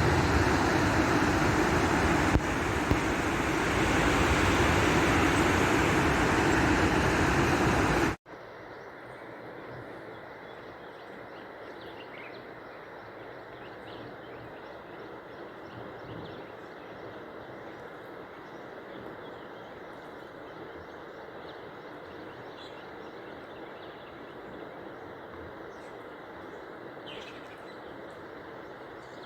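Loud steady rushing noise that cuts off abruptly about eight seconds in. Quieter outdoor ambience follows, with a few faint bird chirps.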